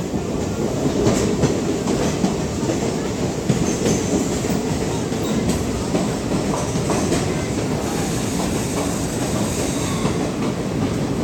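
Passenger train running along the track, heard from aboard: a steady rumble from the carriage with scattered clicks of the wheels on the rails.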